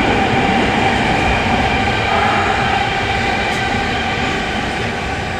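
Interior running sound of an E231-800 series electric train in a subway tunnel: a steady, loud rumble of wheels on rail with a few steady tones on top, easing slightly toward the end.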